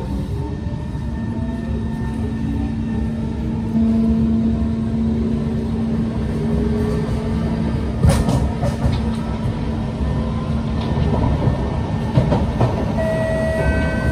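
Kawasaki C151 MRT train heard from inside the car as it pulls away and gathers speed: the traction motors whine up in pitch at first, then settle into a steady hum over the constant rumble of wheels on rail. A couple of sharp clacks come partway through and near the end.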